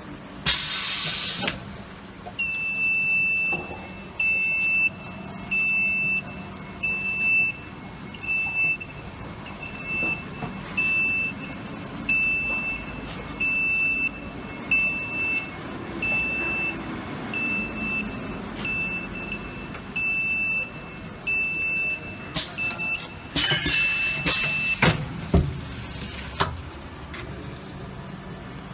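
Automatic EPDM gasket inserting machine running. A short beep repeats a little faster than once a second over a steady high whine, with brief bursts of hiss near the start and again near the end.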